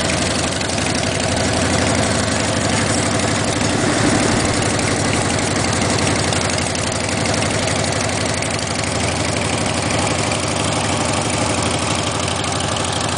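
Motorcycle engine running steadily, with a constant hiss over it.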